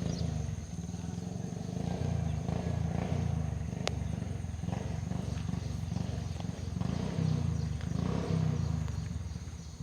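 Hands rubbing and kneading a head and hair close to the microphone, a dense low rustling rumble that swells and eases. A single sharp click about four seconds in.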